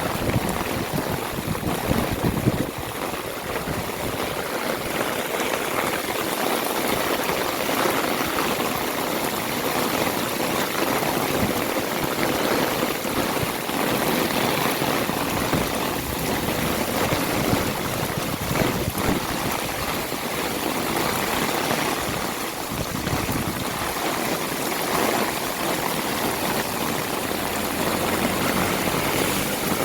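Heavy rain falling steadily, a dense even hiss of water with no letup.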